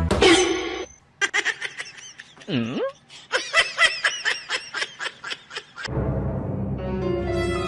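A person laughing in quick, pitched bursts of giggles, with one deep swooping sound in the middle. About six seconds in, laughter gives way to steady background music.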